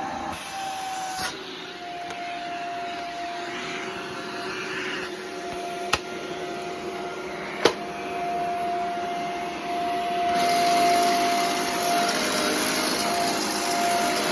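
Shark Rotator Professional NV650 upright vacuum running with a steady motor whine and rushing air, its hose just cleared of a clogging sock. Two sharp knocks come around six and eight seconds in, and about ten seconds in the rush of air grows louder.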